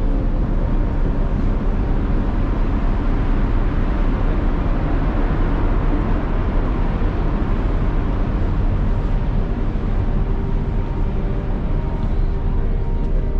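Steady, loud rumbling noise on the open deck of a cruise ship berthed at the pier, deep and even with a hiss above it.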